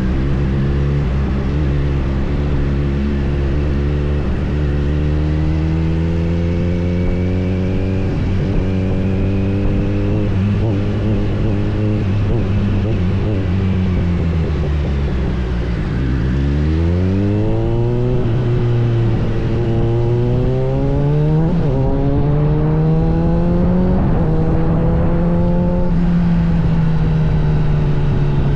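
Motorcycle engine pulling under acceleration, its pitch climbing slowly. A little over halfway through the revs drop low, then climb steeply again and keep rising.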